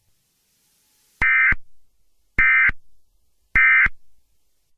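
Emergency Alert System end-of-message signal: three short bursts of SAME digital data tones about a second apart, marking the end of the alert.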